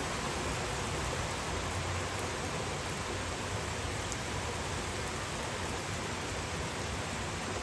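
Steady rainfall, a continuous even hiss of rain falling on surfaces.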